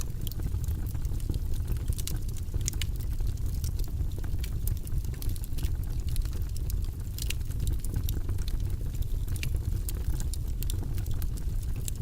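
Wood fire in a fireplace crackling and popping: many irregular sharp snaps over a steady low rumble of the flames.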